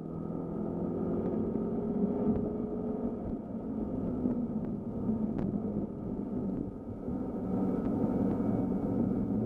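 BMW M5 F10's twin-turbo V8 running, heard from inside the cabin. Its pitch falls slowly over the first three seconds as the car slows, then holds lower and steadier through a bend, over a constant rumble of tyres on the wet track.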